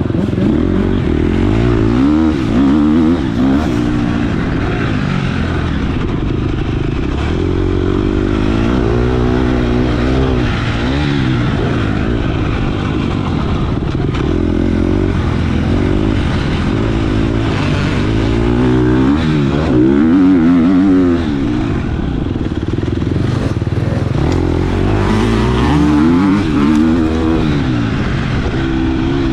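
Motocross bike engines revving hard, the pitch climbing and dropping again and again every few seconds.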